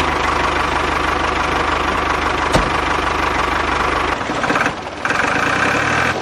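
Small engine running steadily with a fast, even knocking pulse, changing in tone about four seconds in.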